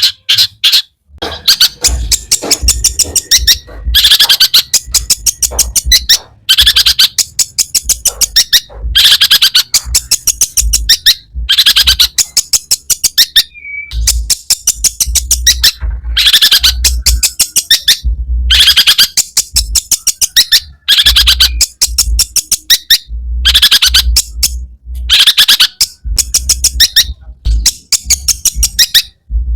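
Long-tailed shrike singing a loud, harsh chattering song: bursts of rapid repeated notes lasting a second or two each, with brief pauses between them.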